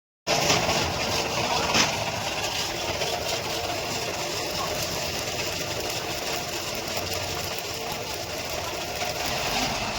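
New Holland 45 HP tractor's diesel engine running steadily, with one brief louder knock about two seconds in.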